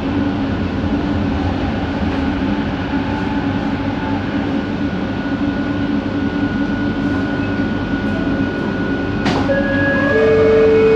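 Bombardier Innovia ART 200 train running, heard from inside the car: a steady rolling rumble with a thin whine from its linear induction motors. Near the end a sharp click is followed by a shift to new, stronger whining tones.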